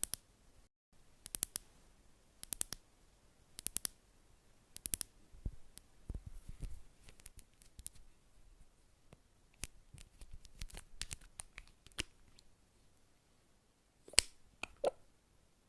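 Close, crisp clicks from a small handled implement, in quick groups of two or three about once a second for the first five seconds. Sparse, lighter ticks follow, then a louder flurry of clicks near the end.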